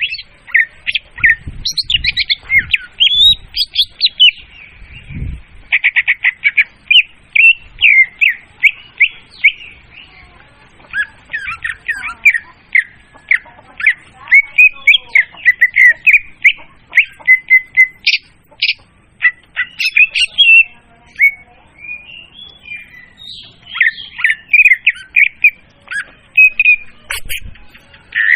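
Leafbird (murai daun) song played as a loud, clear lure recording. It is a fast, unbroken stream of varied chirps, trills and quick rising and falling whistled notes.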